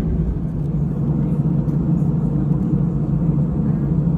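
Steady low rumble and hum inside the cabin of an Airbus A320-214, from its CFM56-5B engines and the airframe in motion, holding an even level throughout.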